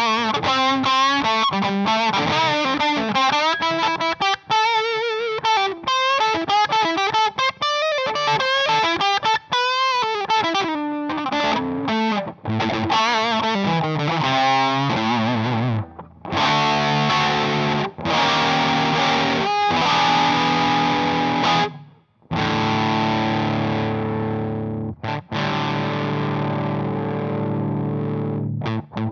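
Electric guitar played through an Emmergy FX Flaming Cake Fuzz pedal. It starts with fast, fuzzy single-note lead runs with bends and vibrato, then moves to thick sustained chords; the last chord is left ringing for several seconds.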